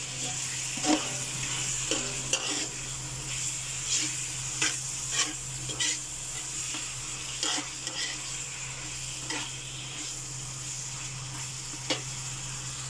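Pork binagoongan (pork in shrimp paste) sizzling in its own oil as it is cooked down, while a metal spoon stirs it and scrapes and clicks against the pan every second or so.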